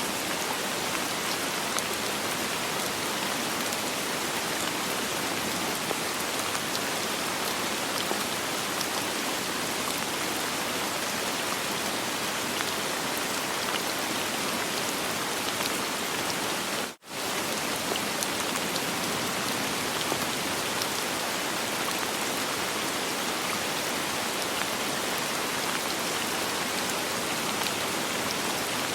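Steady rain falling, a dense, even hiss of drops with no thunder. About 17 seconds in, the sound cuts out for a split second and then resumes.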